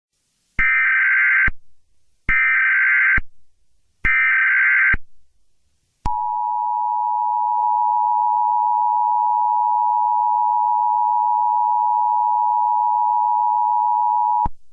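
Emergency Alert System alert opening: three short bursts of digital SAME header data tones, about a second apart, then the two-tone EAS attention signal, a steady harsh dual tone held for about eight seconds.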